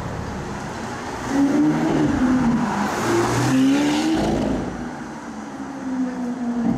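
Car engine revving, rising and falling in pitch, loudest from about a second in to about four seconds, then picking up again near the end.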